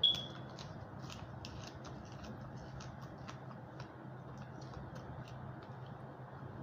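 Close-up eating sounds: a sharp crunch as a raw green onion stalk is bitten, then a run of small crisp crunches and mouth clicks as it and the rice and chicken are chewed.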